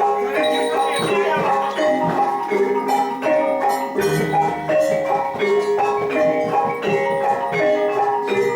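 Javanese gamelan music: struck metallophones play a repeating stepped melody, with regular percussive strikes running under it.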